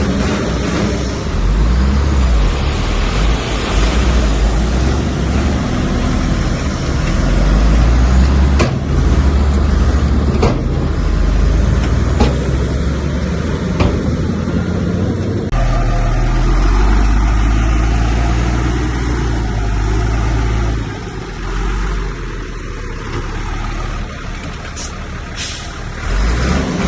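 Bulldozer's diesel engine working hard with a deep, steady rumble, with a few sharp knocks in the middle stretch. The sound changes about halfway through.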